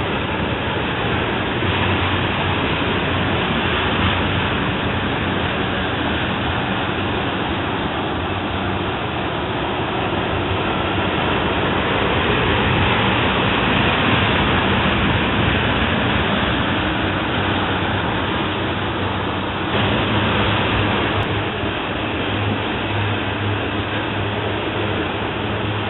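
Freight train of tank cars from an ethanol train rolling past, a steady rumble of steel wheels on the rails. The tone changes abruptly about twenty seconds in.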